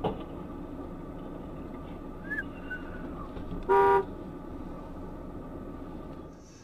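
A single short car horn honk, about halfway through, over steady traffic and vehicle noise.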